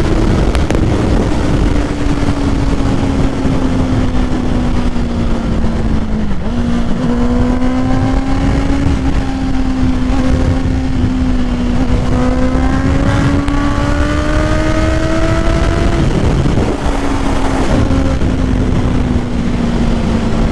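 Honda CBR650R's inline-four engine running through an aftermarket full exhaust at a steady cruise, its note drifting gently up and down with two brief dips in revs, about a third of the way in and again near the end. Heavy wind noise on the helmet microphone runs underneath.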